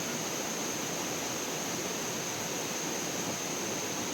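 Steady rushing of flowing water, even and unbroken, with a thin steady high-pitched tone above it.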